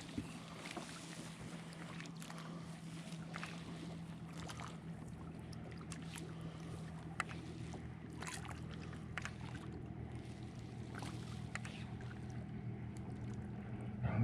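A steady low boat-motor hum on the water, with scattered light clicks and taps of gear on the kayak.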